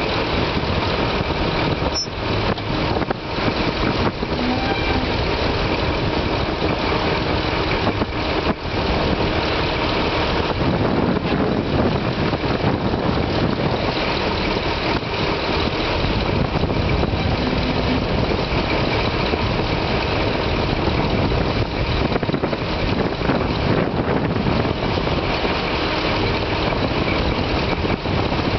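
A sea tug's diesel engine running steadily, heard as a dense, unbroken drone.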